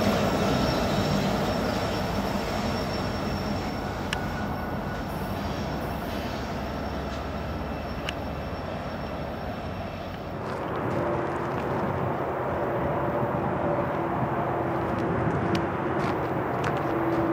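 Train rolling past and fading away, the rail noise dying down over about ten seconds. About ten seconds in, a different steady hum with a held tone comes in and grows slightly louder.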